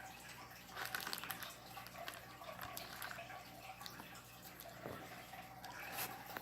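Faint scattered clicks and light taps over a steady low room hum, with a small cluster about a second in and another near the end.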